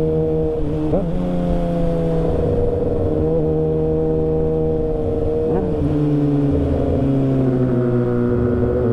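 Motorcycle engine running, its pitch sinking slowly, with quick changes in revs about a second in and again near the middle.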